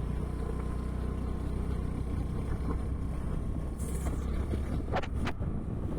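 Motorcycle engine running steadily while riding, a low even hum.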